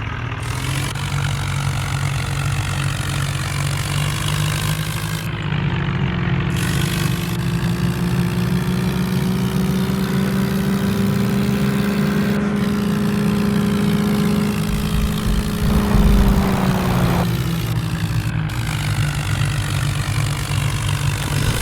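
Vehicle engine running steadily, revved up about six seconds in and held higher for about ten seconds before dropping back, with a loud low rumble just before the drop.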